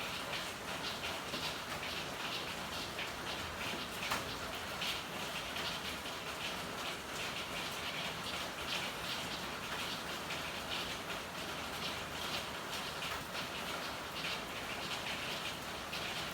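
Steady rain falling in an alley, a dense patter of drops on hard surfaces with occasional louder drips.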